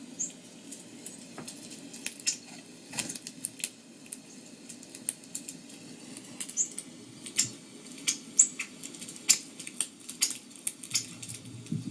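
Irregular sharp clicks and taps with a few brief high chirps from small birds, over a low steady hum.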